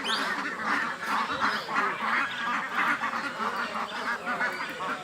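A dense chorus of many birds calling at once: short overlapping calls, unbroken throughout.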